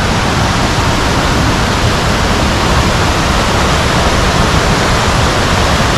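Lozoya River water rushing, a loud, steady rush with no breaks.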